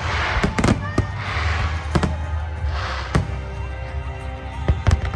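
Aerial fireworks bursting: about half a dozen sharp bangs, some in quick pairs, with crackling hiss after several of the bursts. Music with a steady low bass plays throughout.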